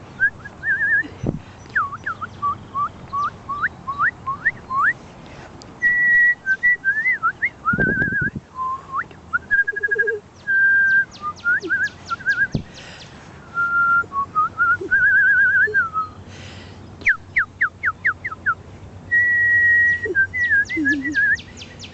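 A woman whistling cardinal-style calls to draw out birds: runs of rising slurred notes, held steady whistles and quick series of upswept notes, with short breaks between phrases. Faint high chips sound in between.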